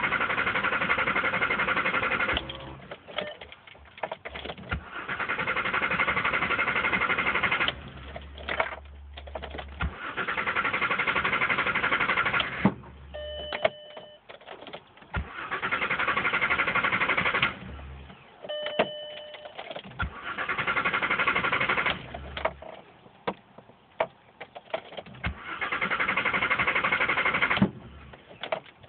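Starter motor of a 2001 Jetta VR6 cranking in repeated bursts of about two to three seconds, six times over, with clicks in the quiet gaps as the key is turned again; the engine does not catch, a no-start the owner traced to a bad battery cable. Two brief electronic beeps sound in the gaps.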